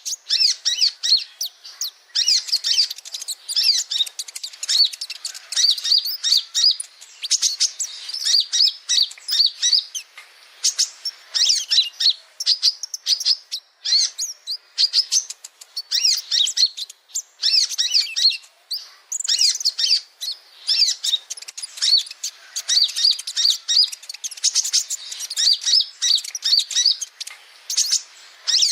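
Male kolibri ninja (a small sunbird) singing: fast, high-pitched twittering phrases, one after another with short breaks.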